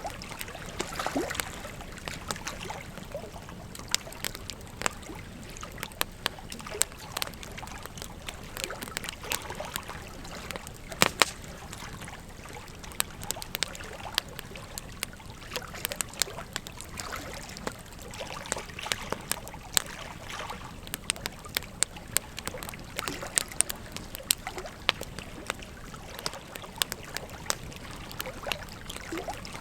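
Wood fire crackling with frequent sharp, irregular pops, the loudest a cluster about eleven seconds in, over the steady rush of a river.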